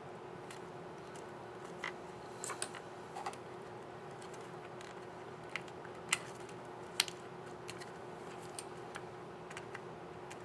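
Scattered small plastic clicks and taps from a key cap and its retainer clip being worked on a Dell XPS 9360 laptop keyboard, the two loudest about six and seven seconds in, over a steady faint hum.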